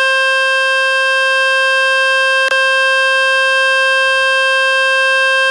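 Loud, steady buzzing tone rich in overtones from the 'Fix My Speaker' speaker-cleaning website, played on a Samsung Galaxy F16 phone to shake dust and water out of its speaker grille. There is a brief click about halfway, and the tone cuts out at the very end.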